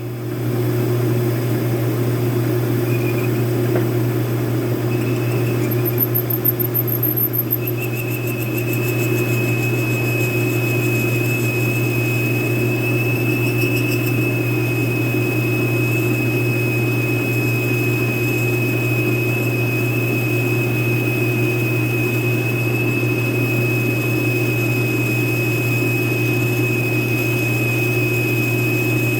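Metal lathe running steadily while a cutting tool bores out the stuck hub material inside a shell mill; about eight seconds in, a steady high-pitched squeal from the cut sets in and holds.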